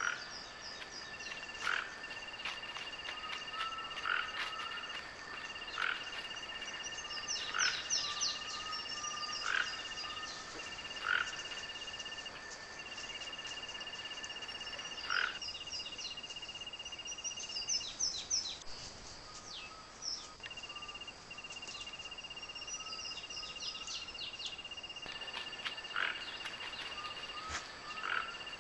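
A chorus of frogs calling: long, steady high trills that pause briefly and resume, overlaid with many short repeated calls.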